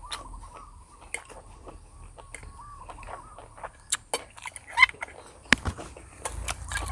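Close-miked eating of instant noodles and sausage: scattered sharp clicks and smacks of mouth and utensils with quiet chewing, and a faint wavering tone through the first half.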